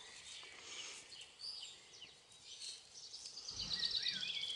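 Small birds chirping outdoors, with one bird's rapid, many-noted song growing louder in the last second or so.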